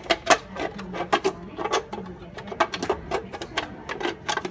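Quick irregular plastic clicks and knocks, several a second, as a vacuum cleaner's plastic parts are handled and opened.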